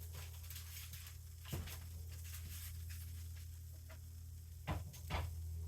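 Quiet handling at a kitchen refrigerator: a light knock about one and a half seconds in and two more near the end, over a steady low hum.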